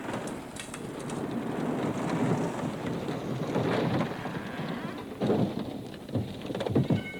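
Thunderstorm sound effect: steady heavy rain with rumbles of thunder, swelling louder about five seconds in and again near the end.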